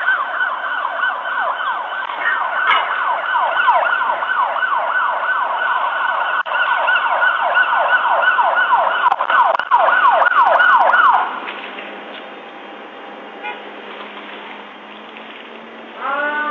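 Emergency vehicle siren on a fast yelp: rapid falling wails repeating several times a second, cutting off suddenly about eleven seconds in, leaving lower traffic and street noise.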